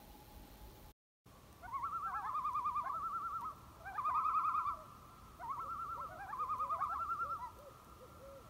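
Bird calls: a rapid quavering call repeated in three phrases, after a brief dropout about a second in.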